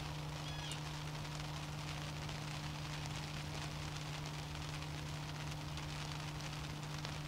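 Steady outdoor background hiss over a constant low hum, with one faint high bird chirp under a second in.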